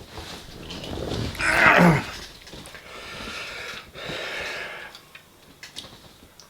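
Close-miked mouth noises of a person eating: chewing and small clicks, with a loud, noisy breath about a second and a half in and softer breaths after.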